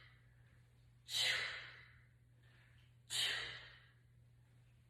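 Two sharp, breathy exhales about two seconds apart, each starting suddenly and fading within a second: a person breathing out on each rep of a bicycle crunch.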